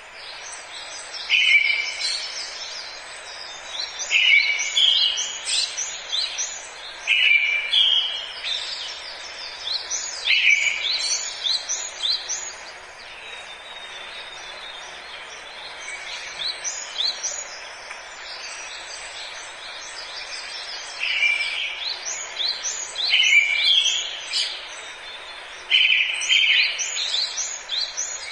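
Songbirds singing in a forest: short phrases come every two to three seconds, each opening on a lower note and breaking into quick higher notes. The phrases stop for several seconds in the middle, then resume. A steady hiss runs underneath throughout.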